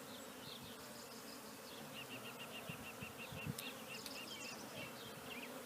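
Honey bees buzzing steadily around an open hive as a frame is lifted out, a continuous hum from the colony.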